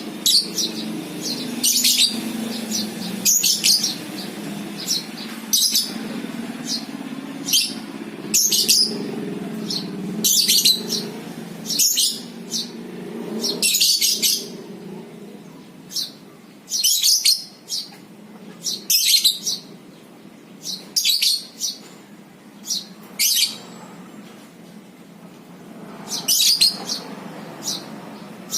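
Lovebirds giving short, shrill chirping calls, one burst every second or two. A low steady hum lies under the first half and fades out about halfway through.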